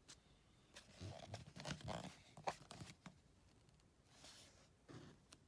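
Soft rustling and light taps of paper book pages being turned and handled, clustered between about one and three seconds in, with another brief swish later.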